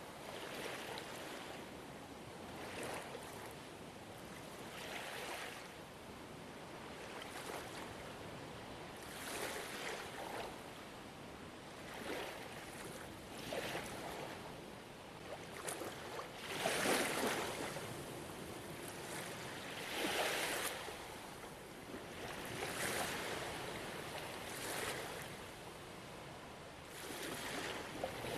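Gentle ocean waves washing onto a shore, a steady hiss with swells every couple of seconds. The loudest surges come about two-thirds of the way through.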